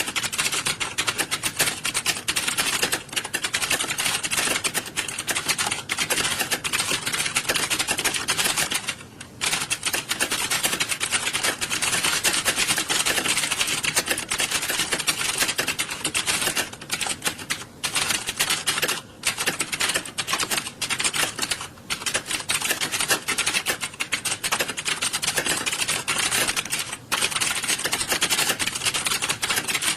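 Many computer keyboards being typed on at once, a dense, unbroken clatter of key presses that thins out briefly a few times.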